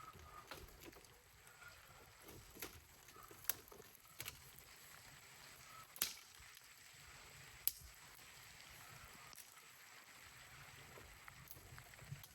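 Quiet background with about five sharp, separate clicks or snaps scattered through it, the loudest near the middle and toward the end.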